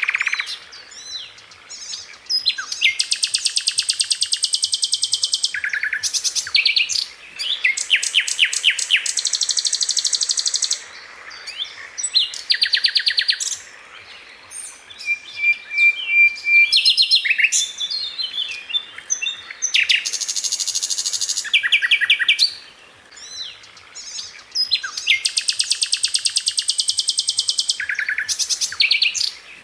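Sikatan londo flycatcher singing: bursts of very fast, tightly repeated high notes, each run lasting one to three seconds, with short pauses and a few quick twittering phrases between them.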